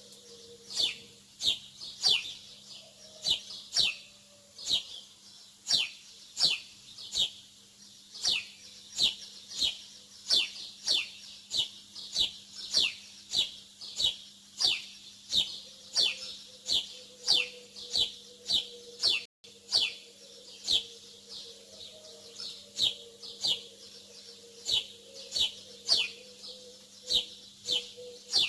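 Small birds chirping: short, high, downward-sliding chirps repeated about twice a second.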